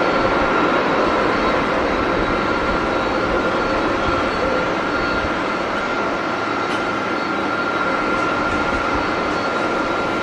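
Jet airliner engines running: a steady rush with a constant high whine held throughout.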